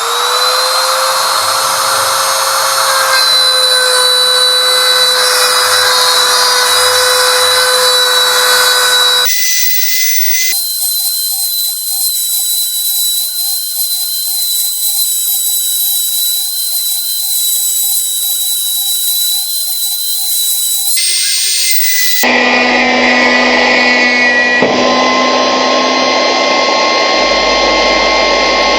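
Spindle motor of a homemade CNC machine cutting wood: a loud, steady whine that spins up at the start, then shifts abruptly to different steady pitches several times.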